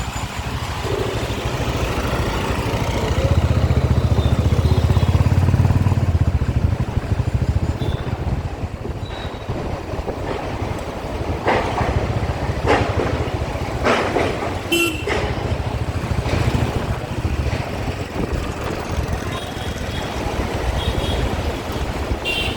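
City road traffic heard while riding a motorcycle: a steady low rumble of engine and wind, heaviest a few seconds in, with several short, sharp sounds around the middle, among them horn-like toots.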